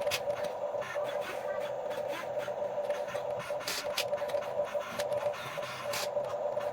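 Huina 1550 remote-control excavator's small electric motors and plastic gearboxes whirring steadily, with scattered sharp clicks and ticks.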